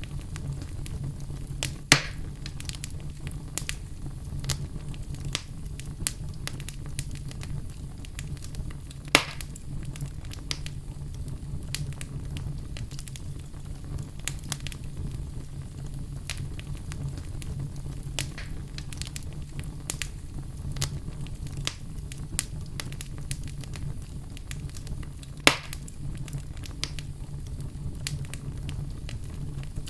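Wood fire burning in a fireplace: a steady low rumble with frequent small crackles and three loud pops of burning wood, about 2, 9 and 25 seconds in.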